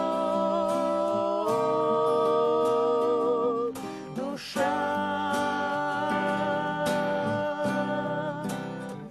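Singing with acoustic guitar: long held notes with vibrato, the pitch moving up about a second and a half in, then a fresh long note from about four and a half seconds that fades near the end, as the song closes.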